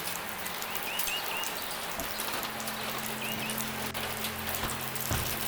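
Steady rain falling, with a bird giving short chirps in groups of two or three, a couple of times. A low steady hum joins about two seconds in.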